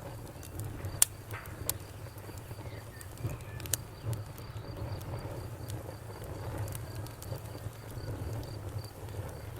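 Wood fire crackling: sharp pops and snaps over a low, steady rumble of the burning fire. The loudest pop comes about a second in, and more follow at three and a half to four seconds. A faint, high, evenly repeating tick runs underneath.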